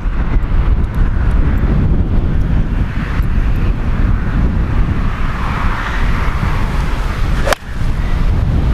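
Strong wind buffeting the microphone in a steady low rumble, with a single sharp click about seven and a half seconds in.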